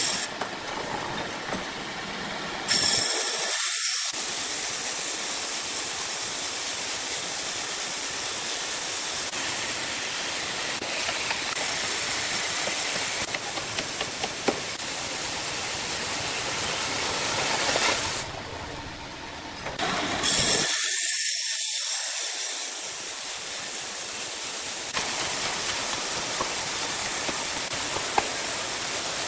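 Sawmill machinery running with a steady, loud hiss. The sound shifts abruptly a few times, about 3, 18 and 20 seconds in.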